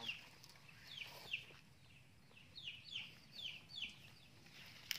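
A bird chirping faintly: a run of short, high chirps, each falling in pitch, coming more thickly in the second half. A single sharp click sounds just before the end.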